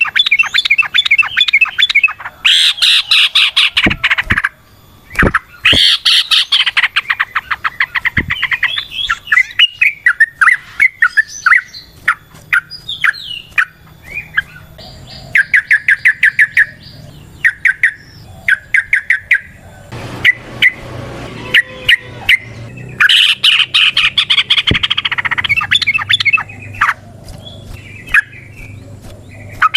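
Yellow-vented bulbul (trucukan) singing in long, rapid chattering runs of quick repeated notes, the fast 'ropel' song. The runs come in several bursts with short pauses between them.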